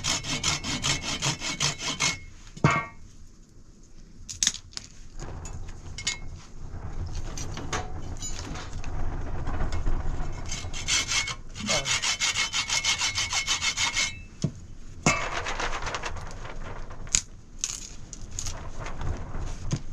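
Saw cutting through wood in quick, rhythmic back-and-forth strokes. The sawing comes in two runs, one at the start and another from about 11 to 14 seconds in, with scattered knocks and rasping between them.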